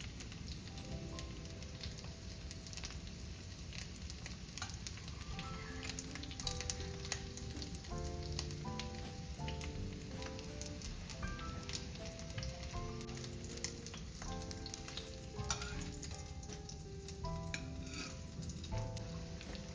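Food frying in a pan of hot oil: a steady crackle of sizzling with scattered sharper pops. Soft melodic background music plays over it.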